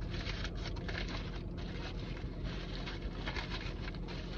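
Paper food wrappers rustling and crinkling in irregular bursts as fast food is handled, over a steady low hum inside a parked car.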